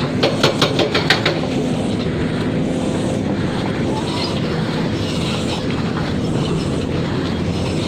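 Diesel engine of heavy construction machinery running steadily with an even hum. A quick run of about seven metallic clanks comes in the first second or so.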